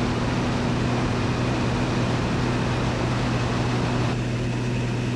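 Pitts Special's engine and propeller droning steadily in level cruise flight, a constant low hum over a wash of wind noise, heard from inside the cockpit.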